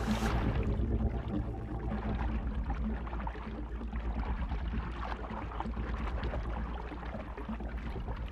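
Low underwater rumble with water churning and swirling as the water is stirred up.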